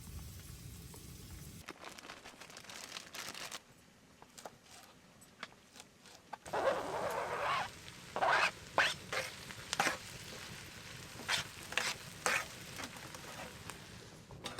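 Food sizzling in a hot pan, with a loud spell of hissing about halfway through, followed by a run of short, sharp scraping strokes as it is stirred.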